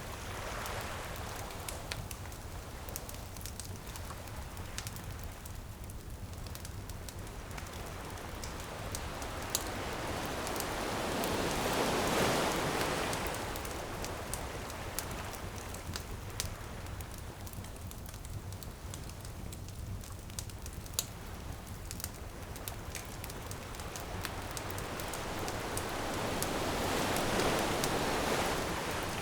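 Ocean waves washing ashore, two slow swells building and fading about twelve seconds in and again near the end, under the steady crackle and snap of a wood bonfire.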